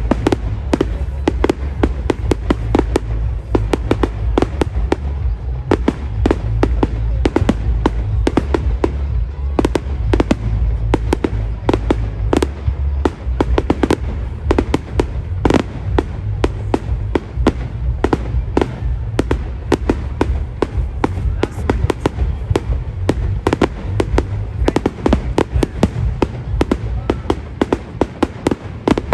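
Fireworks going off at a display: a continuous run of bangs and sharp crackles, several a second, over a steady low rumble.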